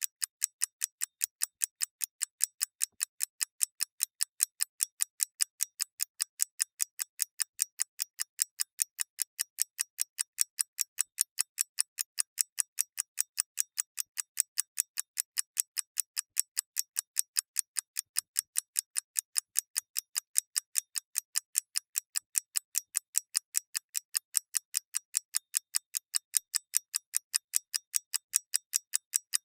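Mechanical clockwork ticking at an even pace, a few crisp, bright ticks a second.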